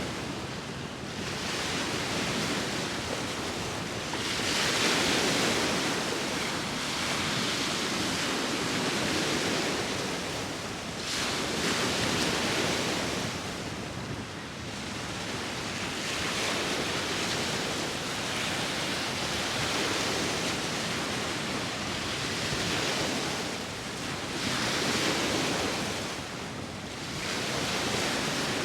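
Sea waves breaking and washing on the shore, the surf swelling and easing every few seconds, with wind in the background.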